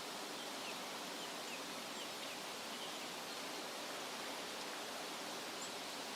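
Steady rustle of wind through leafy trees, with a few faint short bird chirps in the first half and one higher chirp near the end.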